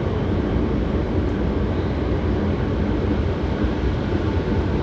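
Hankyu 7300 series electric train car running at speed, heard from inside the car: a steady low rumble of wheels on rail and running gear. The title singles this car out as an odd-noise car (異音車).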